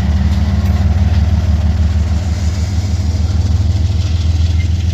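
Diesel freight locomotive engine running deep and steady as the train pulls away from a stop.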